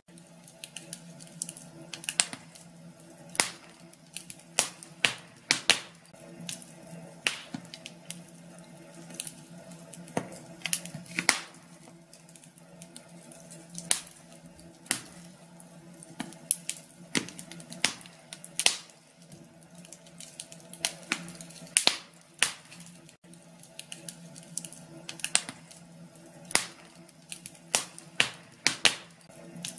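Wood fire in a fireplace crackling, with irregular sharp pops and snaps, some much louder than others, over a steady low hum.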